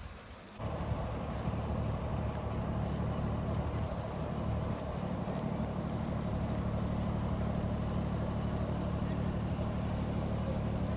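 Boat engine running steadily with a low, even drone; it starts abruptly about half a second in.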